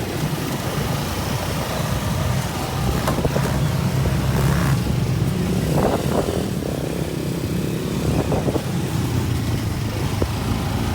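Motorcycle traffic: the steady rumble of small motorcycle and motocarro engines running on the street.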